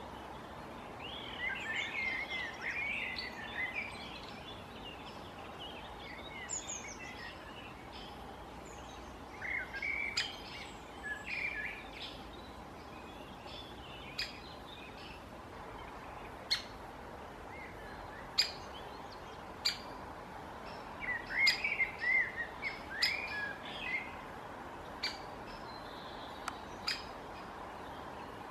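Birds calling outdoors in bursts of rapid chattering chirps. In the second half, single sharp ticks come every second or two.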